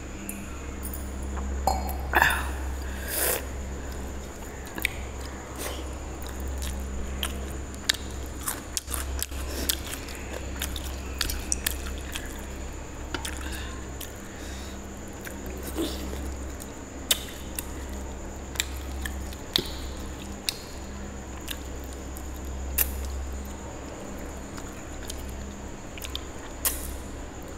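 Close-up eating sounds: chewing rice and mutton curry eaten by hand, with many short wet smacks and clicks of the mouth and fingers, over a steady low hum.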